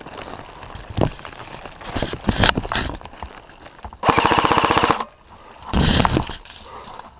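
Airsoft electric gun firing on full auto: a rapid burst of about a second, then a shorter burst, with scattered knocks and rustling of movement before them.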